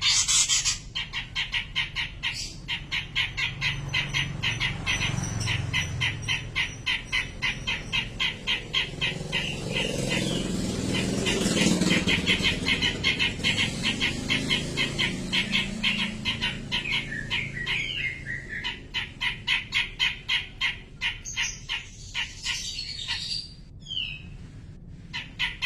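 Cucak jenggot (grey-cheeked bulbul) calling in a long run of rapid, evenly repeated chattering notes, several a second, with brief pauses. A low rumble swells and fades in the middle.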